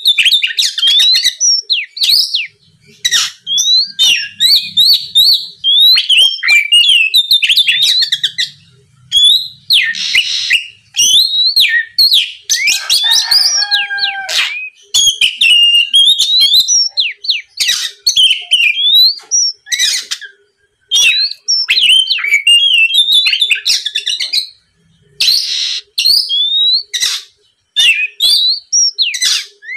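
Oriental magpie-robin (kacer) singing loudly in rapid phrases of sharp whistled notes and up-and-down glides, broken by short pauses. This is the full, energetic song used to provoke rival males into answering.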